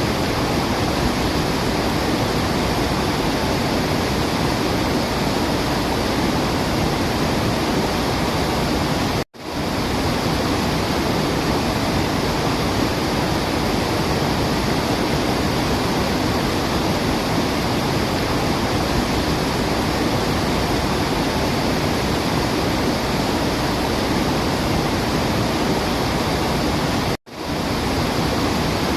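Waterfall rushing in a steady, dense roar of falling water. It cuts out for an instant twice, about nine seconds in and near the end, and fades straight back in.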